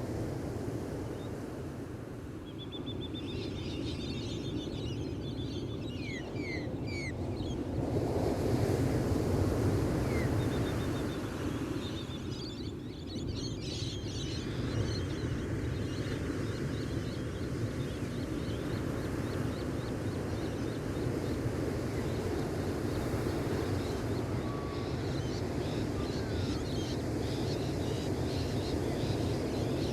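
Gentle ocean waves washing onto a beach in a steady wash, swelling louder about eight seconds in. Small birds chirp and trill over it at several points, including a quick rapid trill and a few short falling whistles.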